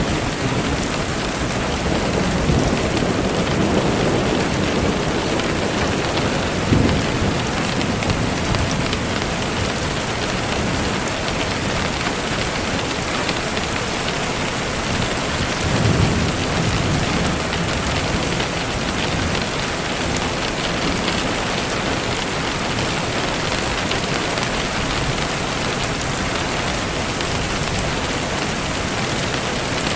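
Steady rain falling on surfaces, with low rumbles of thunder swelling up a few times, the sharpest about seven seconds in.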